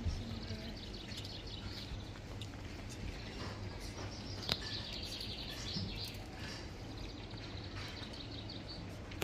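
Small birds chirping and twittering in quick trills over a steady low background rumble, with a sharp click about four and a half seconds in.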